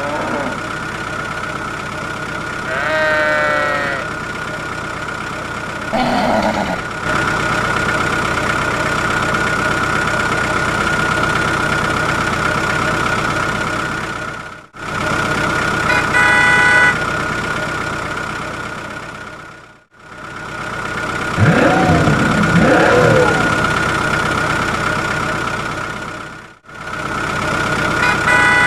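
Steady truck engine running with a constant whine, broken off suddenly three times. There are two short horn toots, one about two-thirds of the way through and one at the end, and a few brief sliding cries.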